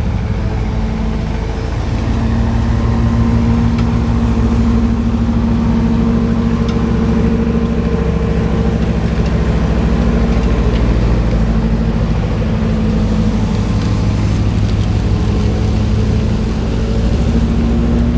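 Engine of road-work machinery running steadily and loudly, holding an even pitch, a little louder from about two seconds in.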